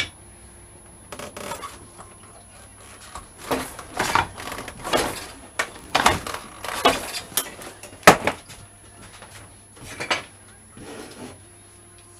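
Handling noise: short scraping and rubbing sounds of parts being moved, with a sharp click at the very start and a loud knock about eight seconds in.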